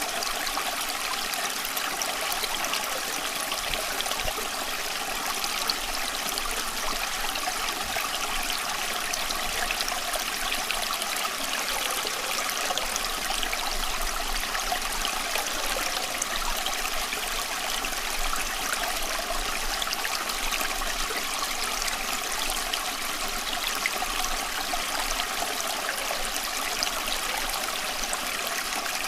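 Running water flowing in a steady, unbroken rush, mostly bright and hissy with little low rumble.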